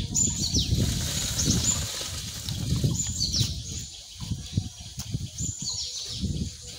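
Small birds chirping in clusters of quick falling chirps every second or two, over an uneven low rumble that is loudest at the start and fades.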